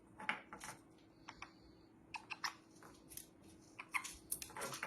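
Scattered light clicks and taps of parrots' beaks and feet handling nuts, with a brief faint high tone about a second in.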